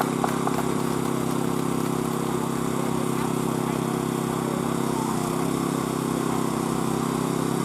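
An engine running steadily with an even low pulse, holding one speed throughout.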